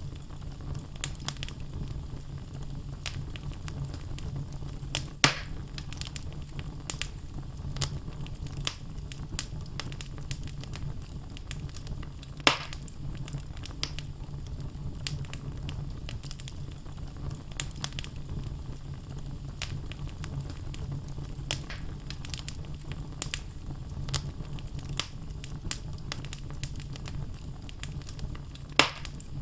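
Wood fire burning in a fireplace: logs crackling with many small snaps over a low steady rumble, with three louder pops about five seconds in, about twelve seconds in and near the end.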